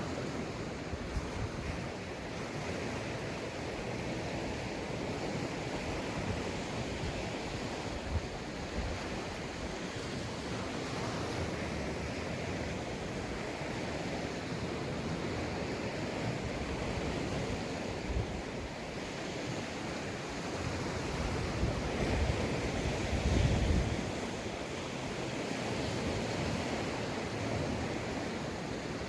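Sea waves breaking and washing onto a sandy beach in a steady, continuous surf, with one louder, deeper surge about three quarters of the way through.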